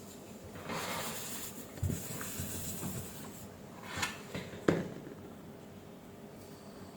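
Handling noise from fitting the drive circuit board back into its housing: rubbing and rustling, then a few light knocks, the last and sharpest close to five seconds in.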